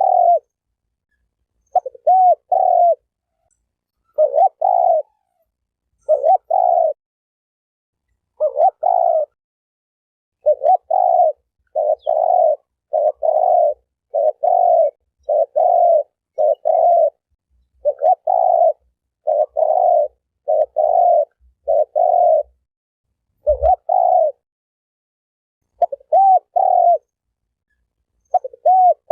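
Spotted dove (terkukur) cooing over and over, short phrases of two or three coos each with dead silence between, coming faster through the middle. A brief low thump about two-thirds of the way through.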